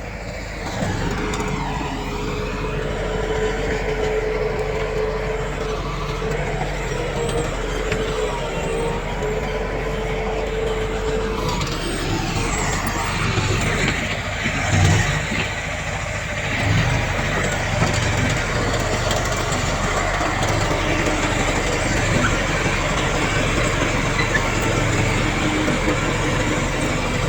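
Heavy earthmoving machinery, a bulldozer and dump trucks, running steadily with diesel engine noise. A steady whine runs for roughly the first ten seconds, and there is a louder surge about halfway through.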